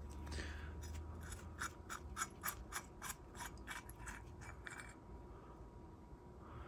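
Light clicks and scrapes of small carburettor parts being handled on a workbench, in a quick irregular run for about four seconds before going quieter.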